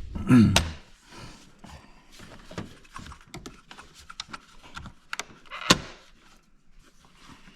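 Hands working the clips and parts of a car's engine-bay housing. There are scattered clicks and knocks, a louder clunk just after the start and a sharp click a little before six seconds in.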